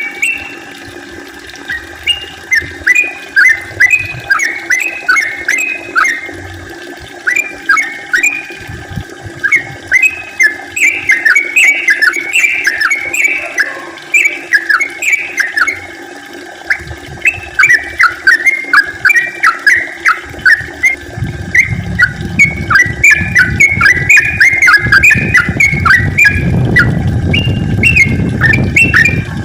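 Yellow-vented bulbul singing a long, rapid run of bright chirping notes in quick phrases with short pauses between them. A low rushing noise rises under the song in the last third.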